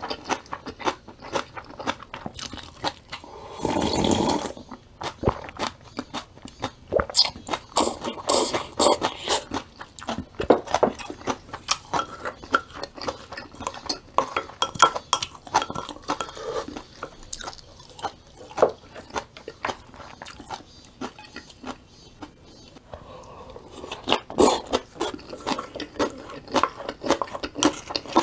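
Close-miked chewing and crunching of crisp vegetables, with many sharp crunches in quick succession and a short, louder burst of noise about four seconds in.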